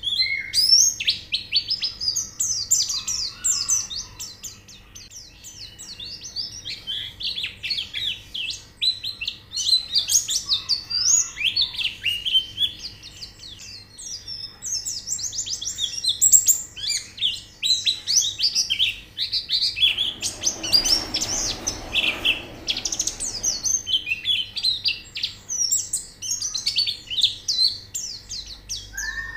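White-eyes (pleci) singing: dense, rapid, high-pitched chirping and twittering. A brief rustling noise comes in about twenty seconds in.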